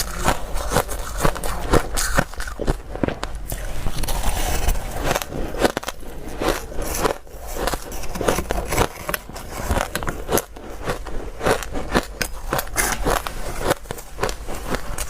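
Ice being bitten and chewed close to the microphone: a dense, irregular run of sharp crunches and crackles.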